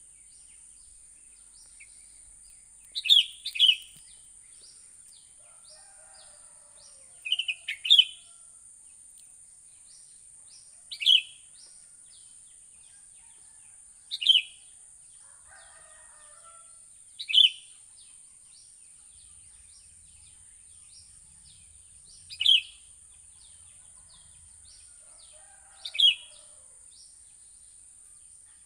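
Sooty-headed bulbul (kutilang) calling: short loud calls repeated every three to five seconds, some in quick pairs, over faint rapid chirping of other small birds and a steady high-pitched hiss.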